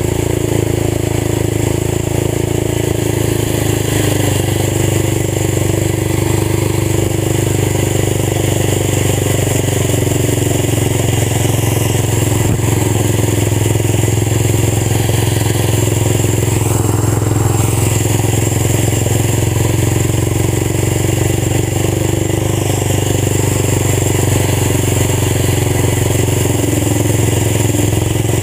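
Old tractor engine running steadily through a fully open exhaust, holding a constant pitch.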